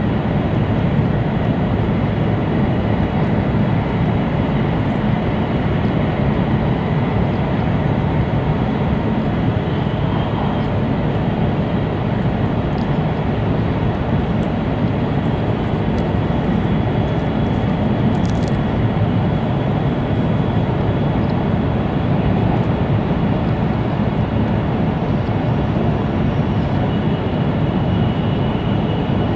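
Steady running noise inside an E2-series Shinkansen car at speed: a constant rumble of wheels on rail and rushing air, unchanging throughout.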